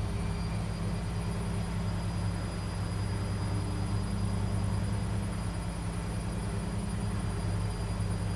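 Washing machine running with a steady low hum and a faint, high, constant whine.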